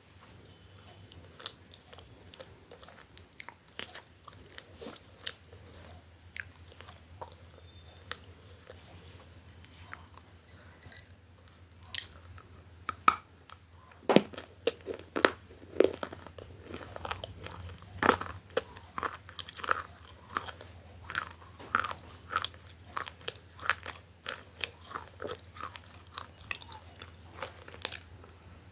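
Crunchy food being bitten and chewed close to the microphone, a string of sharp crunches. They are light and sparse at first, then louder and more frequent about halfway through, over a faint steady low hum.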